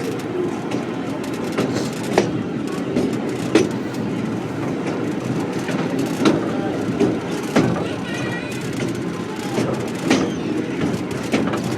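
Heritage train running along the line: a steady rumble with irregular sharp knocks and clanks from the wheels and couplings, and a brief wavering squeal about eight seconds in.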